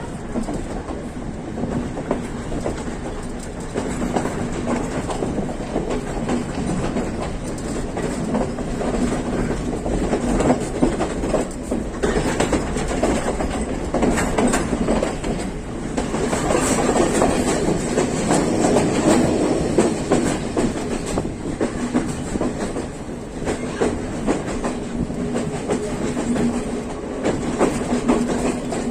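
Colombo–Badulla Night Mail express train running along the track, its wheels clattering over rail joints with a steady low hum underneath. The clatter grows a little louder just past halfway.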